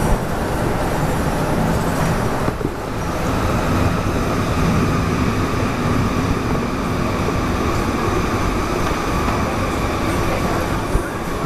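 Metro train noise at a station: a steady, dense running rumble with a steady whine over it as a train passes on the adjacent track.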